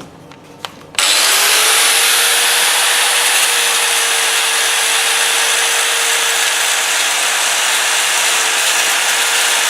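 A grinder starts up about a second in, its whine rising briefly and then holding steady, and grinds stainless steel with a loud continuous hiss. A few light clicks come before it.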